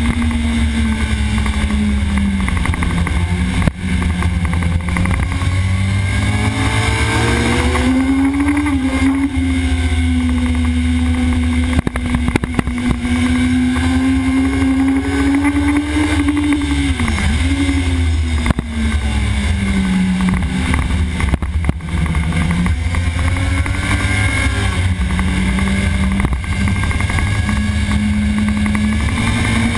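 Sport motorcycle engine at racing speed, its note rising under acceleration and falling as it slows for corners, with a quick drop and jump in pitch about seventeen seconds in as it changes gear. A constant low rumble of wind buffeting the helmet-level camera mic lies under it.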